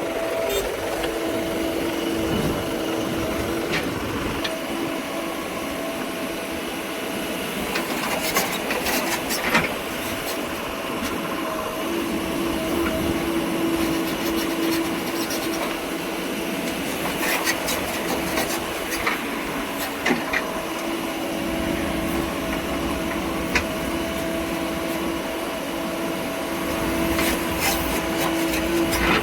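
Machine engine running steadily with a held hum, with scattered sharp clicks and knocks over it.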